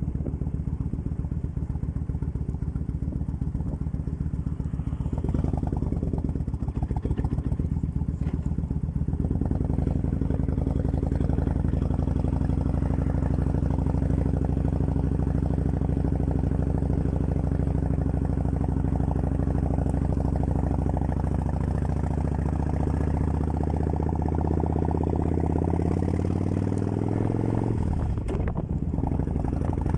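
Kawasaki Vulcan 1500 Classic's V-twin engine running: idling for the first few seconds, then held at raised revs from about five seconds in, with the pitch creeping slowly upward later on. Near the end the revs drop briefly and pick up again.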